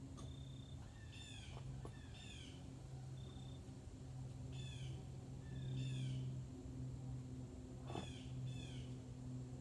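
Birds calling: short falling chirps repeated about once a second, over a steady low hum.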